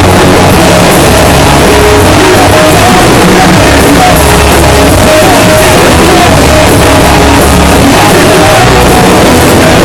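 A rock band playing at full volume, recorded so hot that the sound is overloaded and distorted throughout: really horrible sound.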